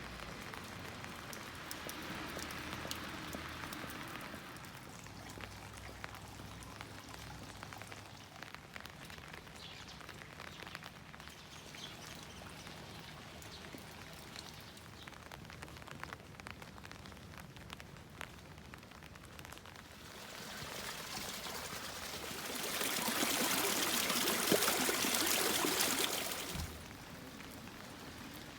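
Steady rain falling, with many close raindrops ticking. About two-thirds of the way through, a much louder rushing hiss swells up, holds for a few seconds and cuts off suddenly.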